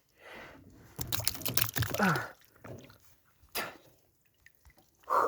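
Irregular splashing and dripping of water, with a few sharp knocks in between.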